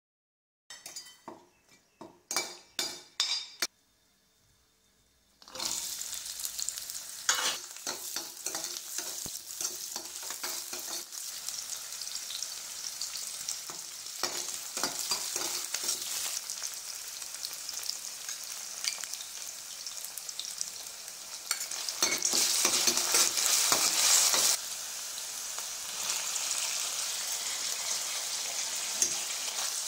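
Shallots, curry leaves and whole spices frying in hot oil in a stainless steel pan, sizzling steadily while a metal spoon stirs and scrapes against the pan. The sizzle starts about five seconds in after a few faint taps, and swells louder for a couple of seconds about three quarters of the way through.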